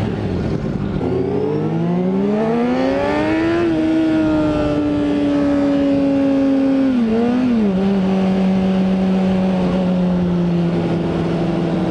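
Honda CBR600RR inline-four engine accelerating: its pitch climbs for about three seconds, holds, then drops at an upshift about seven seconds in and runs on steady in the next gear.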